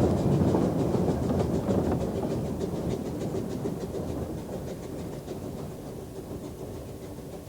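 Steam train on a narrow-gauge light railway running past and fading away into the distance, its rumble and regular beat dying down steadily.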